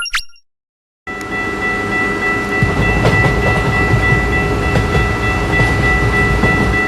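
A railroad crossing bell rings its last two strikes. After a short gap a train comes in: a steady rumble of rolling wagons with a long steady horn-like tone held over it, which stops abruptly.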